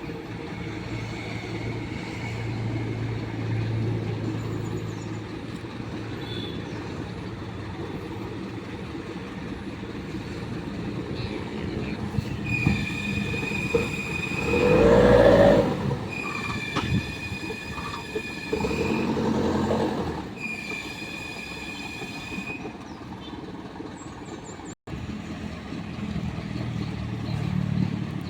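Dump truck engine running under load, with a high-pitched squeal that comes and goes several times. A loud rushing surge comes about halfway through, and a shorter one a few seconds later.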